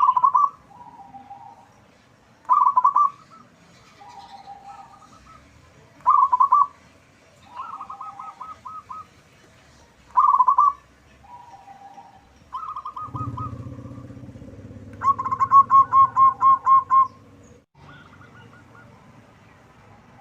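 Zebra doves cooing: a loud, short rolling coo every three to four seconds, with quieter coos at a slightly lower pitch from other doves between them. Near the end a longer rapid run of about eight coos sounds over a low rumble.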